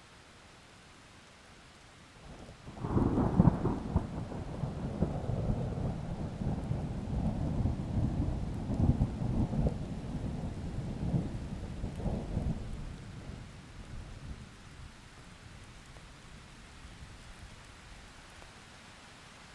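Thunder over steady rain: a sudden loud clap about three seconds in turns into a long low rolling rumble that surges several times and dies away a little after the middle. The rain is a faint, steady hiss underneath.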